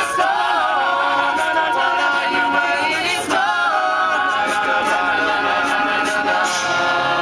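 An a cappella group singing in close harmony with no instruments; about halfway through, the voices settle onto one long held chord.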